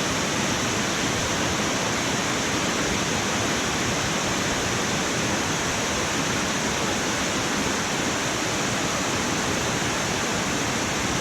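Waterfall cascading down a rocky cliff, a steady loud rush of falling water.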